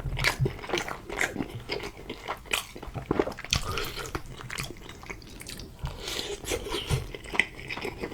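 A person chewing a mouthful of pasta close to the microphone: irregular mouth clicks and smacks.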